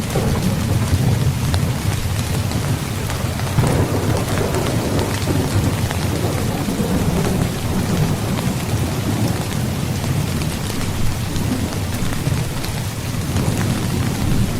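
Heavy rain pouring steadily, with low rolling thunder rumbling beneath it and swelling now and then.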